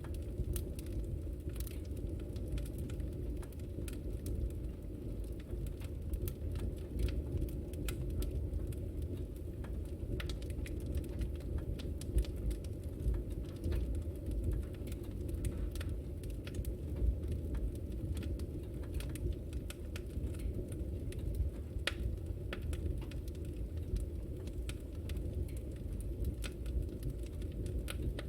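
Wood fire burning in a fireplace, with a steady low rumble of flame and frequent scattered crackles and pops.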